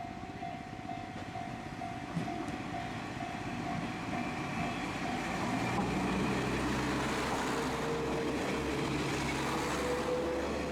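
A railway level-crossing warning bell rings in a quick, even pulse. From about halfway a diesel train passes close, its engine and wheels growing louder and drowning out the bell.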